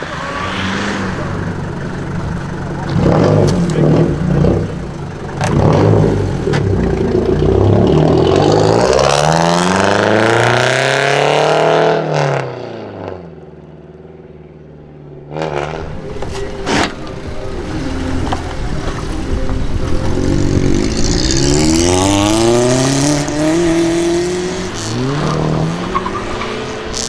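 Modified cars' engines revving and accelerating hard as they pull away, their pitch climbing again and again. There are short blips of revs early on and two sharp cracks around the middle.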